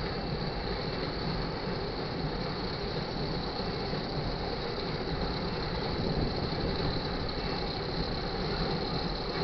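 Tank cars of a loaded crude oil freight train rolling past a grade crossing: a steady, continuous clatter and rumble of steel wheels on the rails.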